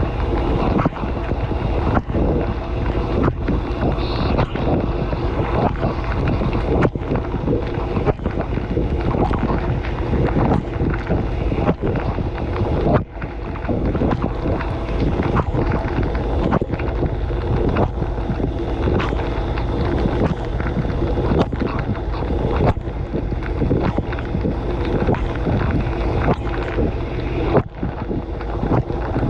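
Dishwasher running, heard from inside the tub: water from the spray arms rushing and splashing over the dishes and the camera in a steady loud wash, with frequent sharp knocks as jets and droplets strike.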